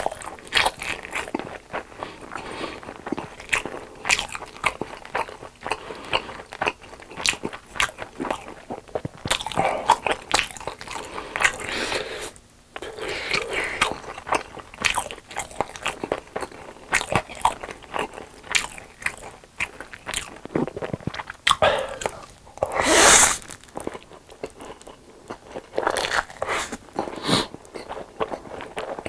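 Close-miked eating: a person takes repeated crunchy bites and chews with a mouthful of food, in many short crackly strokes. There is one louder noisy burst about two-thirds of the way through.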